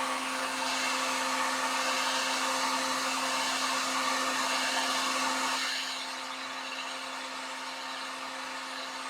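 Handheld electric hot-air blower running steadily with a constant motor hum, heating hot glue to soften it. It gets somewhat quieter about six seconds in.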